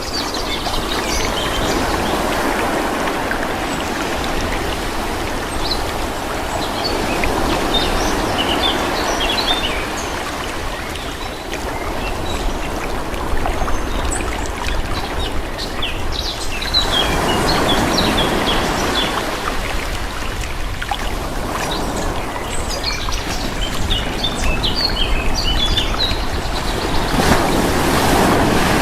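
Calm sea: small waves washing in and drawing back, swelling every several seconds, with small birds chirping over them.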